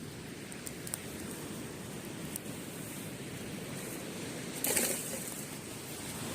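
Surf washing steadily on the beach, slowly growing louder, with a few small crackles from the wood campfire and a louder burst of crackling near three-quarters of the way through.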